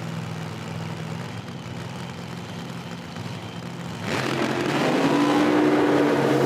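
Drag racing car engines running at a steady low rumble, then about four seconds in a much louder, fuller engine sound as a car accelerates down the strip.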